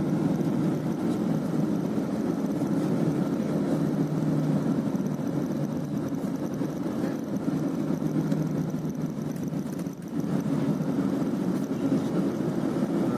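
Steady engine and road noise heard from inside a moving bus, dipping briefly about ten seconds in.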